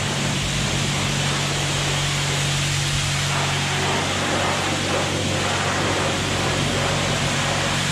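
Hand-pump foam sprayer hissing steadily as it sprays thick soap foam, over a low steady hum. The spray is weak, as if short of pressure.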